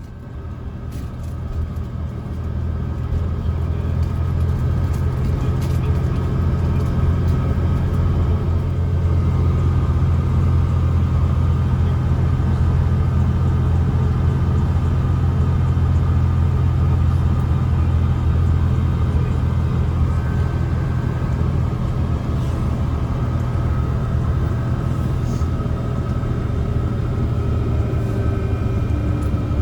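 Mercedes-Benz O307 city bus's diesel engine running under way, heard from inside the passenger cabin: a deep steady rumble that builds over the first few seconds, then holds.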